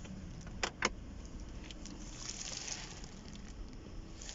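Two sharp clicks close together a little under a second in, then a brief soft rustle: the lid of a car's center console being handled and opened.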